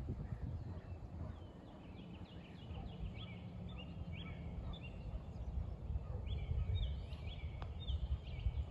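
A songbird calling in two runs of quick, short chirps, over a steady low outdoor rumble.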